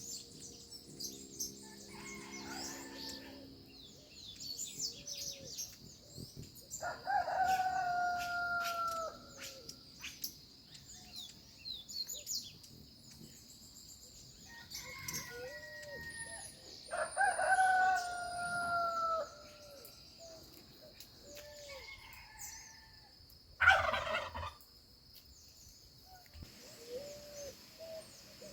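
A rooster crowing twice, each crow a long call of about two seconds, over a steady high-pitched hum and scattered small bird chirps. A short, loud burst of sound comes near the end.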